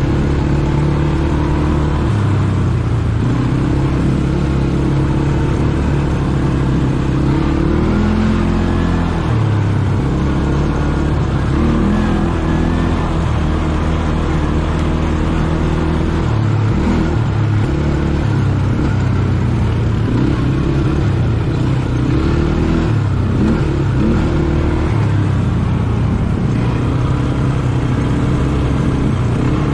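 ATV engine running under way, its pitch rising and falling over and over as the throttle and speed change.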